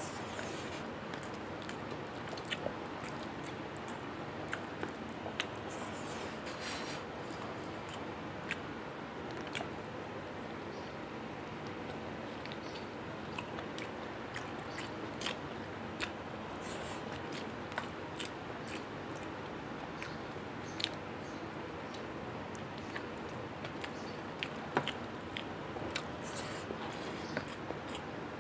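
A person eating rice and chicken curry by hand, heard close to a lapel microphone: chewing, with scattered sharp little clicks and smacks over a steady background hiss.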